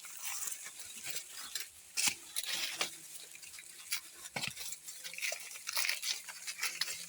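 Dry maize husks and stalks rustling and crackling as cobs are harvested by hand, with irregular sharp snaps, the loudest about two seconds in and again at about four and a half seconds.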